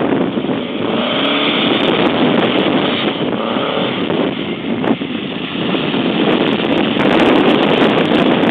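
Air-cooled Volkswagen Beetle flat-four engine running and revving as the car drives past, with wind buffeting the microphone.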